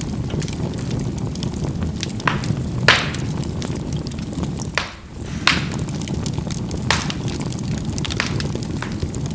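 Charcoal burning in a fireplace: a steady low rumble of flames with constant small crackles, and sharp pops of the charcoal bursting about five times. The rumble dips briefly about halfway through.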